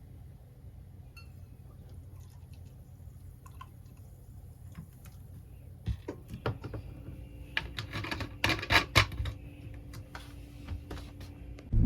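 Low room hum, then from about halfway a run of light clattering knocks and clicks of small hard objects being handled, busiest near the end.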